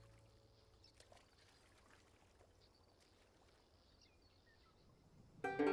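Very faint outdoor background with a few small, high chirps. Near the end, an acoustic guitar chord starts and rings on.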